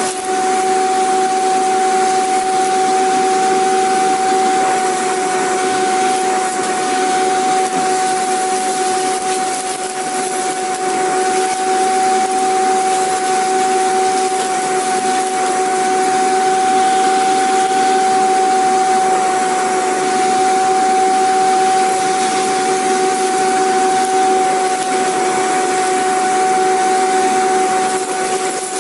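Vacuum cleaner running steadily: an even rush of air with a constant whine over it, unchanging throughout.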